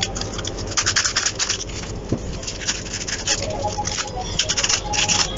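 Fine sandpaper rubbed by hand over the rusty metal of an opened vacuum cleaner motor, in a series of short, irregular scratchy strokes: light cleaning of surface rust.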